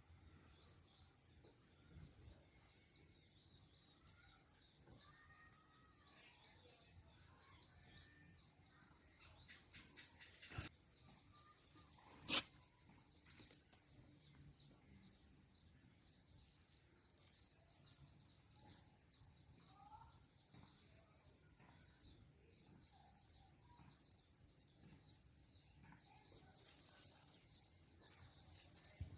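Faint outdoor background with small birds chirping over and over, in short high notes, and a few lower whistled calls. Two sharp clicks come about two seconds apart midway through; the second is the loudest sound.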